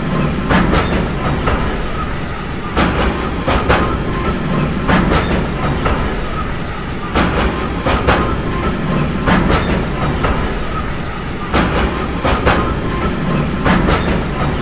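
Train running steadily on its rails: a continuous rumble with the clickety-clack of wheels over rail joints, the clacks coming in quick pairs about every two seconds.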